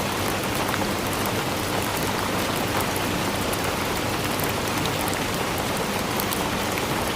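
Steady rainfall, a constant hiss of rain with many small sharp drop ticks scattered through it.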